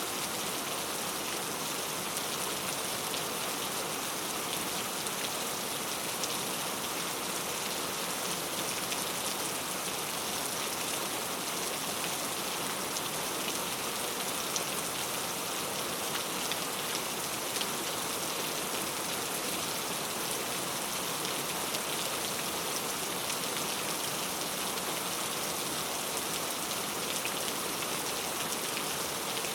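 Steady rain falling, a constant patter of drops on a surface, with faint individual drop ticks.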